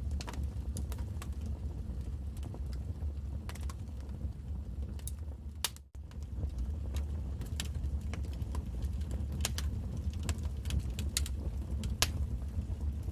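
Wood fire crackling, with sharp irregular pops and snaps over a low steady rumble. A brief dropout about six seconds in cuts the sound almost to silence.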